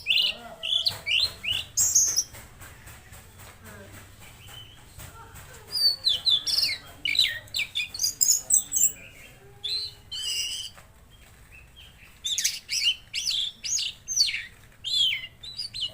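A tledekan laut songbird singing in three bouts of rapid, high-pitched chirps and trills, with short pauses between them.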